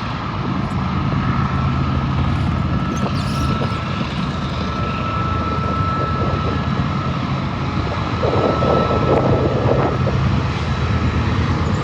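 Diesel freight train running past: a steady low engine drone with a thin high tone held over it, a little louder in the last few seconds.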